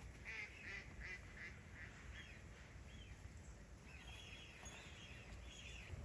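Faint bird calls: a quick run of short repeated notes in the first two seconds, then a few longer rising-and-falling calls, over a low steady rumble.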